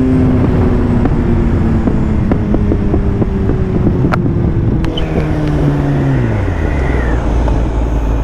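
Kawasaki ZX-10R inline-four engine winding down as the motorcycle decelerates: its pitch falls in steps, then drops to a low steady idle near the end. Heavy wind rushes over the microphone.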